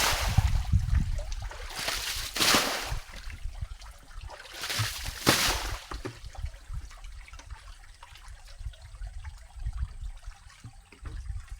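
Shallow muddy water splashing and sloshing in three surges over the first six seconds, then soft trickling and small splashes.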